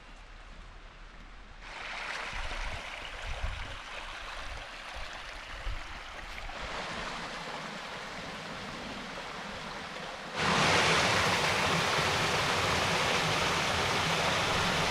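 A small woodland stream rushing over rocks in little cascading waterfalls. The rush grows louder a couple of seconds in and then jumps much louder, closer to the water, about two-thirds of the way through. A few soft low thumps sound in the first half.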